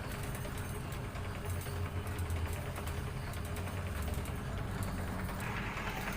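Salvaged washing-machine motor driving a noodle-making machine, running with a steady low hum and faint rapid ticking.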